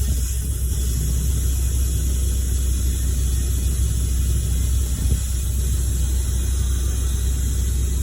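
Steady low rumble of a running motor, even in level without changes.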